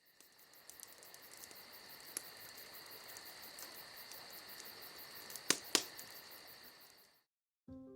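Insects chirping steadily in a fast, even pulse. Two sharp clicks about five and a half seconds in are the loudest sounds. The chirping fades out shortly before the end.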